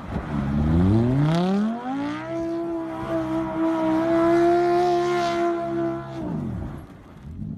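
Car engine revving: the pitch climbs over about two seconds, holds high and steady for about four seconds, then drops back near the end.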